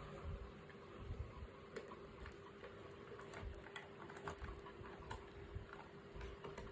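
A pet chewing and eating mutton: faint, irregular wet clicks and soft smacks of its mouth working on the meat.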